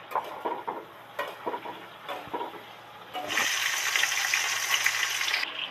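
Metal spatula scraping and tapping in a kadai as cauliflower florets are stirred in hot oil. About three seconds in, a loud, steady sizzle of the florets deep-frying in the oil takes over, then stops abruptly.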